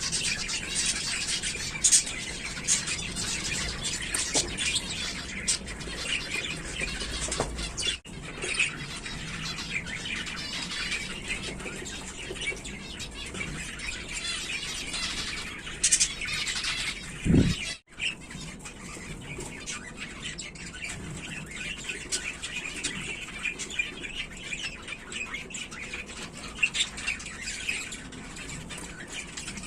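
Zebra finches chirping and calling continuously in a dense chorus of short, high calls, with some wing flapping. A low thump sounds about seventeen seconds in.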